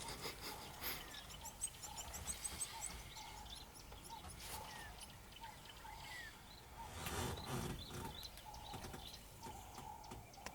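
Wild birds calling: a short mid-pitched note repeated over and over, and about a second in a quick run of high chirps.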